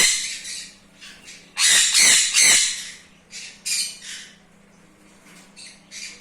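Sun conures screeching: a pair of loud, harsh screeches about two seconds in, then a few shorter ones around four seconds, over a faint steady low hum.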